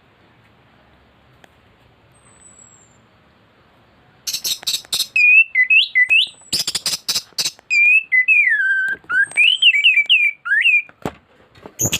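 An anis thrush (Geokichla) singing in full voice. After about four seconds of near quiet, it gives a burst of rapid harsh clicking notes, then a run of whistled phrases sliding up and down that repeats until near the end.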